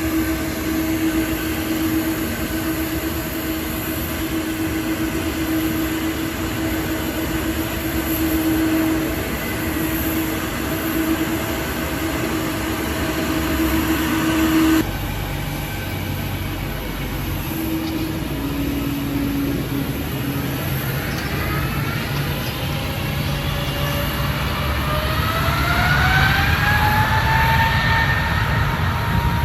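Boeing 777-200ER jet engines running with a steady whine; after a sudden cut about halfway through, the engines spool up in a rising whine that climbs over the last several seconds, as for take-off thrust.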